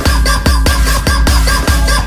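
Jungle Dutch electronic dance music: a loud, fast, steady beat of about four hits a second over heavy bass, with held synth tones above.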